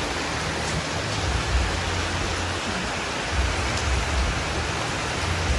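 Heavy rain pouring steadily, a dense even hiss, with gusty wind rumbling on the microphone off and on.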